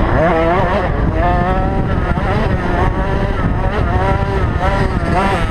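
Small two-stroke motocross bike engines, youth 50cc racers such as the KTM SX50, revving hard and easing off over and over as they race. Several engine notes overlap, each rising and falling.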